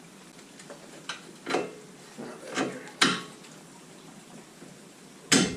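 A few separate clinks and knocks of metal tools and suspension parts being handled while fitting, with the loudest sharp knock near the end.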